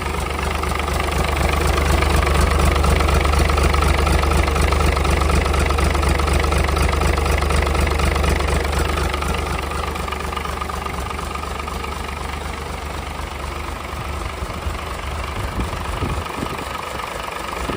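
Isuzu UM6SD1TCG six-cylinder marine diesel running with a steady low hum. It gets noticeably quieter about halfway through, and the running turns uneven near the end.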